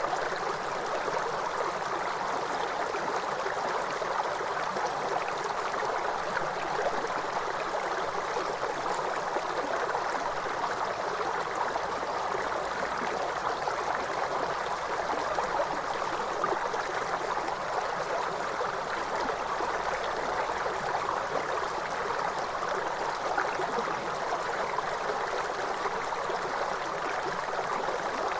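Waterfall: steady rushing, splashing water, an even hiss without change.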